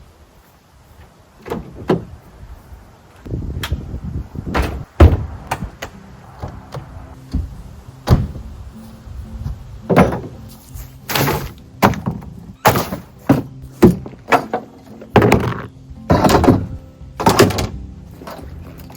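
A series of irregular knocks and thuds, the loudest about five seconds in, over faint background music.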